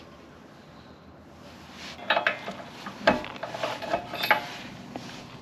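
Metal clinks and knocks, a cluster of sharp strikes between about two and four and a half seconds in, as hand tools and metal parts are handled.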